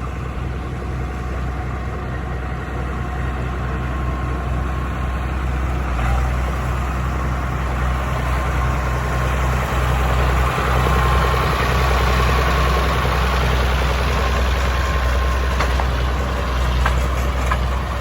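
Tractor engine idling steadily: a low, even drone that grows a little louder after about four seconds.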